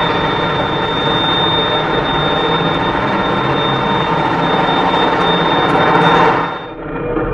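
Truck engine running steadily with heavy road and engine noise and a faint high whine, cutting off abruptly near the end.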